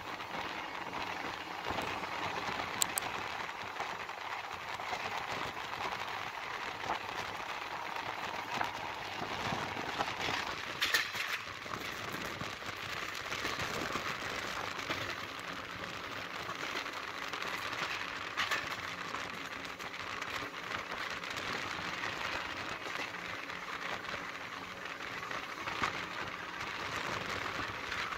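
Steady rushing hiss of a passenger train running at speed, heard from on board, with a few sharp clicks from the wheels passing over rail joints and points as it runs through a station without stopping.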